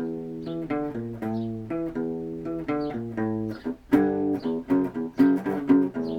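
Guitar playing a rock riff: picked notes in a steady rhythm, picked harder and louder in the last couple of seconds.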